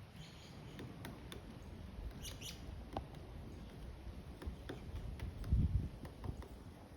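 Scattered, irregular sharp taps from a pileated woodpecker pecking at wood, over a low rumble that is loudest about five and a half seconds in. A brief high bird chirp comes about two seconds in.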